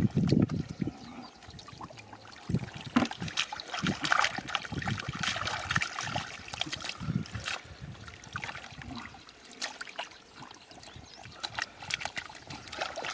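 Shallow water splashing and trickling in irregular bursts as it is stirred and disturbed by hands or fish, with many small sharp splashes.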